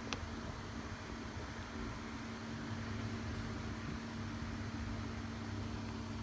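Steady hum with a constant low tone and an even hiss, like a fan or bench equipment running, with a single sharp click just after the start.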